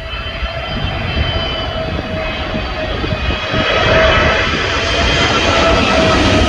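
Jet airliner's engines, a rumble with a steady whine on top, growing louder over the first few seconds and then holding.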